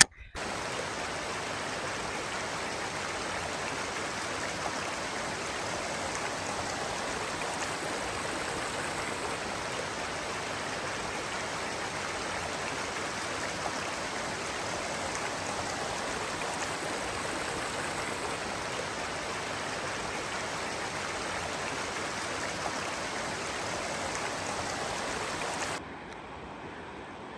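Steady rushing of a mountain creek's flowing water. Near the end it drops suddenly to a quieter level.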